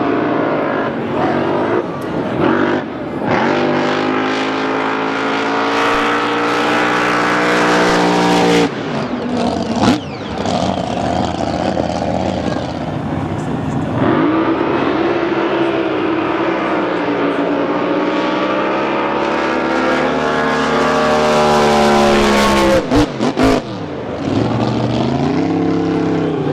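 Supercharged, alcohol-burning V8 of a top alcohol flat bottom drag boat running hard, its pitch rising and falling several times, with a short break about nine seconds in and a few abrupt cut-outs near the end.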